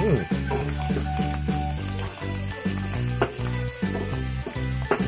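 Mushrooms, onion and garlic sizzling in a frying pan as they are stirred with a wooden spatula, with light clicks of the spatula against the pan. A background music track with a steady beat plays throughout.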